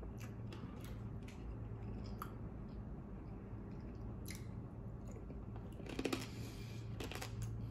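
A person chewing a mouthful of dipped food, faint, with scattered soft mouth clicks over a steady low hum.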